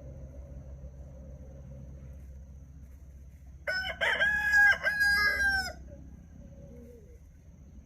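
A rooster crowing once, a loud call lasting about two seconds in the middle, over a steady low background hum.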